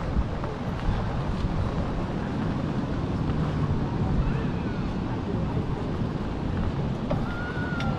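Wind buffeting a chest-mounted GoPro's microphone while riding an e-bike, a steady low rumbling rush. A faint, thin whistle-like tone sounds twice in the second half.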